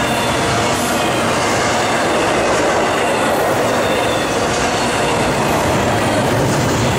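Norfolk Southern intermodal freight cars rolling past close by: a steady, loud rumble and rattle of steel wheels on rail, with a faint high squeal from the wheels.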